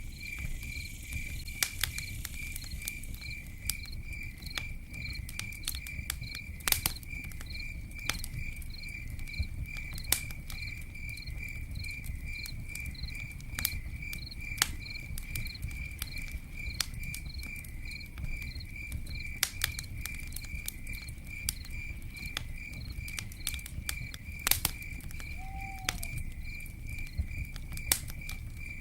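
Crickets chirping steadily, about three chirps a second, over a crackling campfire: a low rumble of burning with scattered sharp pops, the loudest about seven seconds in and near the end. One short falling note sounds near the end.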